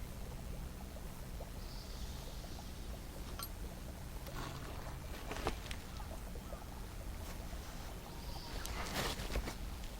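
Wood campfire crackling, with scattered short pops and a louder rustle about nine seconds in.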